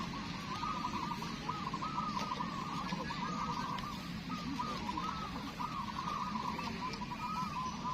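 Many zebra doves (perkutut) cooing at once, their short arched, rolling notes overlapping without a break.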